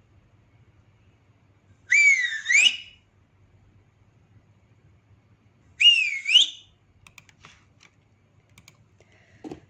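Whistling: two short whistles about four seconds apart, each lasting about a second, with the pitch wavering down and up twice.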